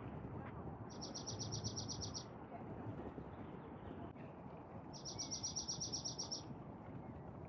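A small songbird singing a dry, rapid trill of evenly repeated high notes, twice, each about a second and a half long, over steady outdoor background noise.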